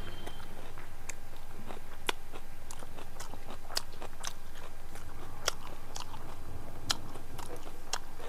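A person chewing mouthfuls of chicken biryani close to a clip-on microphone, with sharp mouth clicks and small crunches at irregular spacing, about once a second.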